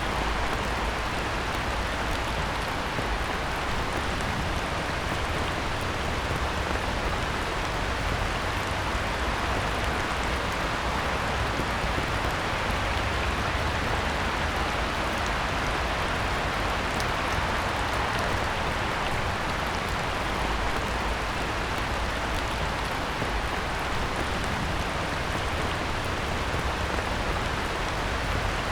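Heavy rain falling steadily on a pond: a dense, even hiss of drops on the water surface.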